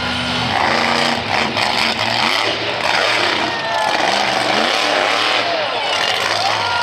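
Monster truck engine running loud, its pitch rising and falling as it revs.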